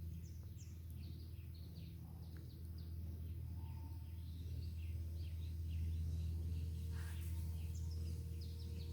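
Several birds chirping in short, quick calls throughout, over a steady low background rumble.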